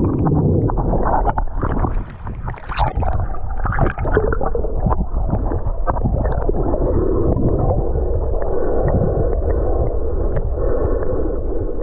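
Muffled sloshing and gurgling of water heard by a camera underwater, with scattered clicks and knocks, busiest in the first few seconds.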